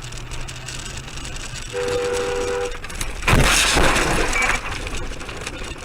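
A vehicle horn sounds for about a second, then a sudden loud crash of a vehicle collision, with road noise underneath.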